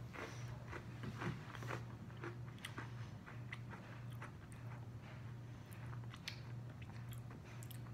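A person chewing a mouthful of Oreo sandwich cookie, with irregular crisp crunches and crackles of the wafer being broken down. A steady low hum runs underneath.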